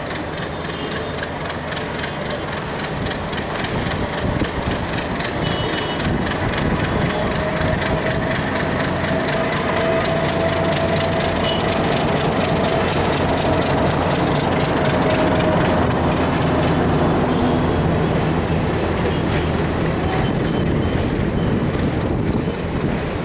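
Passenger train coaches rolling slowly over the rail joints and points of a station approach, with a rapid, even clickety-clack of the wheels. A drawn-out high squeal runs for several seconds in the middle.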